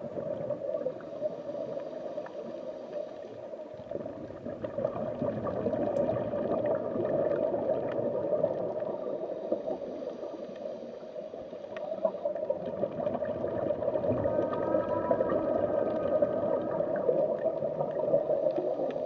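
Muffled underwater noise picked up by a dive camera, a steady watery rush with some gurgling that swells and fades over several seconds.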